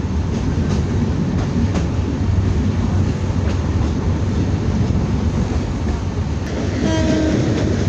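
Passenger train running: a steady low rumble with faint clicking from the wheels on the rails. Near the end a short steady tone with overtones sounds for under a second.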